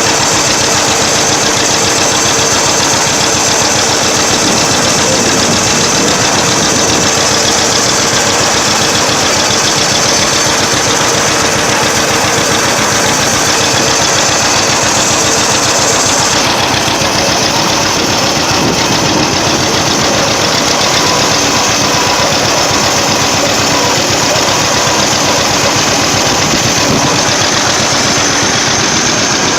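Old engine of a vintage machine being driven, running steadily and loud, close to the microphone, with a fast, even beat.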